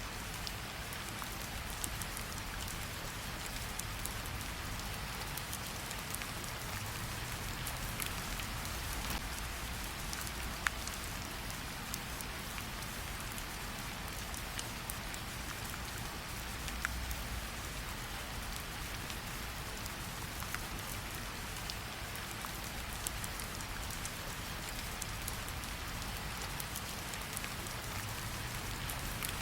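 Steady rain falling, with a few scattered sharp pops from a crackling fire.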